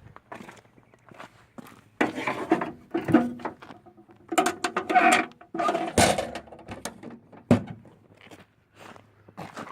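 Knocks and clatter from the generator's oil drain hose and its metal housing being handled, with a busy run of rattling in the middle and two sharp single knocks about six and seven and a half seconds in.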